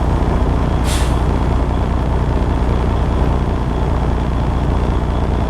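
Steady low rumble of a truck running, heard from inside the vehicle, with a short hiss about a second in.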